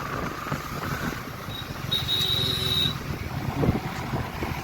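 Motorcycle riding in slow traffic: a steady low engine and road rumble with wind noise. About two seconds in, a high-pitched tone sounds for about a second.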